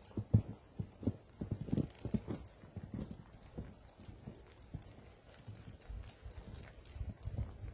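Footsteps: a series of soft, irregular thumps, closest together in the first few seconds, then fainter and sparser.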